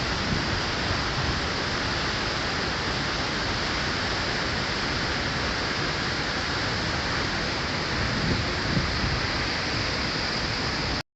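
Waterfall rushing as a steady, loud noise, cutting off abruptly near the end.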